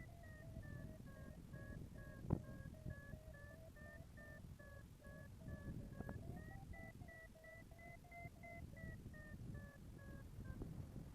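Paragliding variometer beeping steadily in quick pulses, its pitch sinking and then rising again as the climb in lift weakens and picks up. Low wind rumble on the microphone lies under it, with a sharp click about two seconds in.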